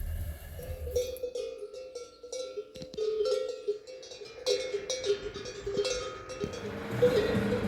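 Animal bells clanking irregularly, starting about half a second in, each strike ringing briefly.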